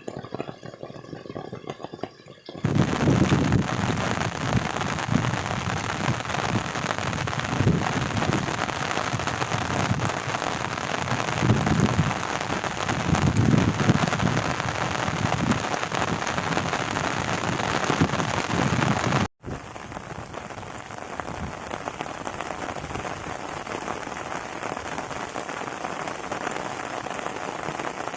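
Heavy rain pouring down, a loud steady hiss with repeated low surges underneath, starting abruptly a few seconds in after a quieter stretch. About two-thirds of the way through it cuts off sharply and is replaced by a quieter, lighter-sounding steady rain.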